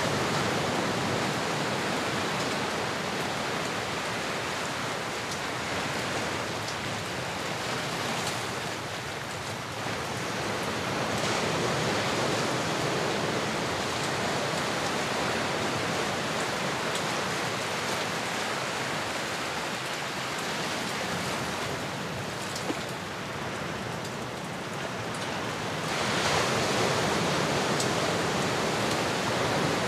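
Ocean surf: a steady rush of waves washing in and out, swelling and ebbing slowly, with a louder swell rising near the end.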